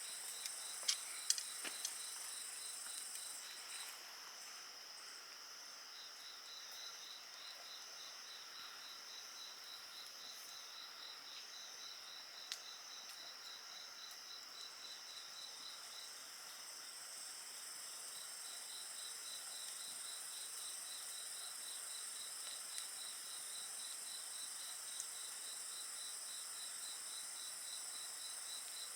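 A chorus of crickets and other insects chirping steadily in several layered high tones, one of them a pulsing trill. A wood fire crackles in a few sharp pops, several close together about a second in and a few single ones later.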